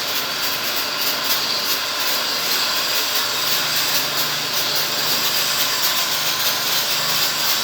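Steady hiss of a water jet from a small electric pressure washer cleaning an air conditioner, with the washer's motor humming low underneath.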